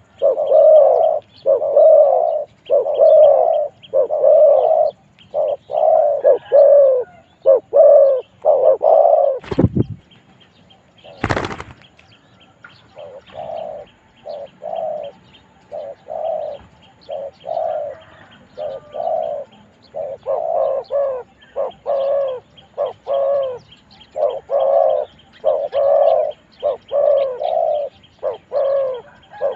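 Spotted doves cooing in a steady run of repeated phrases. Two sharp knocks sound about ten and eleven and a half seconds in, and the cooing stops briefly before resuming.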